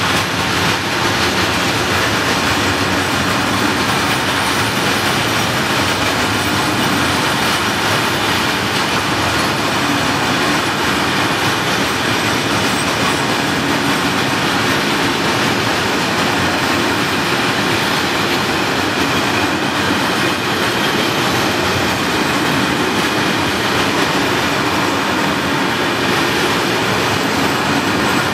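Freight train of covered hopper wagons rolling past close by: a steady, loud noise of steel wheels running on the rails, unbroken throughout.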